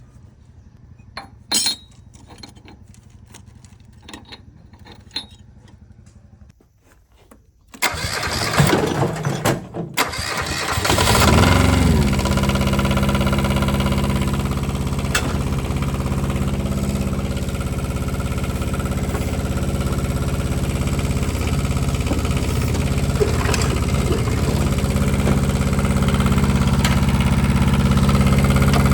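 Kubota KH-007 mini excavator's diesel engine being started. After a few light clicks, the starter cranks for about two seconds from about eight seconds in, and the engine catches around eleven seconds in and settles into a steady idle.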